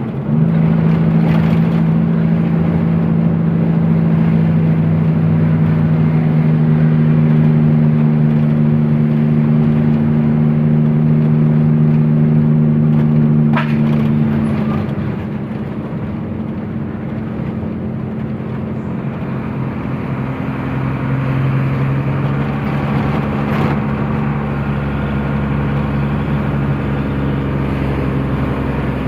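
Truck engine running steadily while driving. About halfway through, a single sharp click; just after, the engine note drops and goes quieter, then settles at a slightly different pitch.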